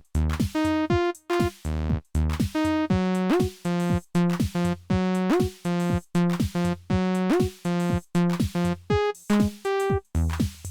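Electronic music from a Roland T-8 beat machine: a steady drum-machine beat with a pitched synth bass line whose notes glide up and down in pitch.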